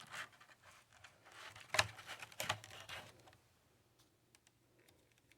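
Handling noise: a few scattered clicks and knocks in the first three seconds as a heavy object and the phone are moved about, then quiet.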